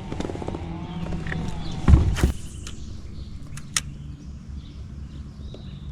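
Handling noises of a fisherman working on a kayak: a loud knock about two seconds in, then a few sharp clicks, over a steady low hum.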